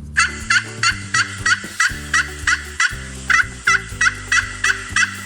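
Wild turkey gobbling: a long, rapid run of short calls, about four a second, over light background music.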